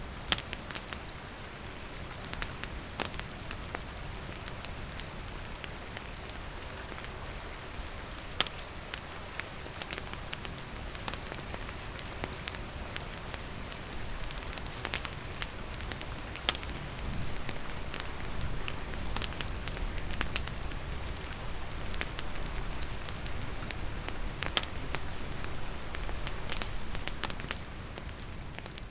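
Steady rainfall mixed with a wood campfire crackling, with many sharp separate pops and snaps scattered over the even hiss of the rain.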